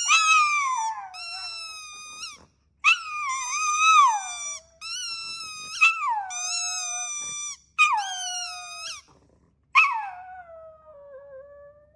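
A dog howling and whining in a series of about seven drawn-out calls, most sliding down in pitch, the last one the longest.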